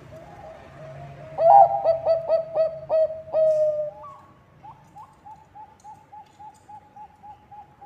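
Bangkok-type zebra dove (perkutut) cooing. A loud run of staccato coos begins about a second and a half in and lasts over two seconds, then gives way to a quicker series of softer, even short notes, about five a second.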